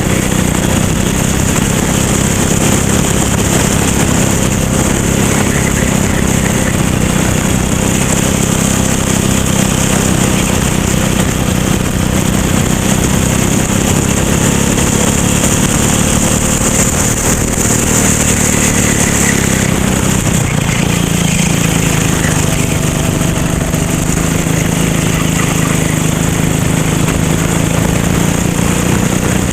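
Racing kart engine running continuously and loud, its pitch swelling and dipping gently.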